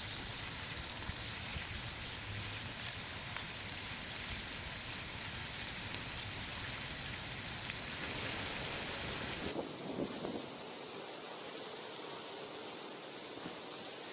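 Food frying in hot oil in a karahi, sizzling steadily; the low background rumble drops away abruptly about nine and a half seconds in.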